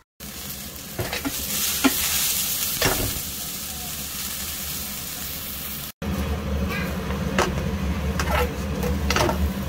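Sliced mini king oyster mushrooms sizzling as they fry in oil in a nonstick pan, with a few short scrapes of stirring. After a brief break about six seconds in, a steady low hum joins the sizzle.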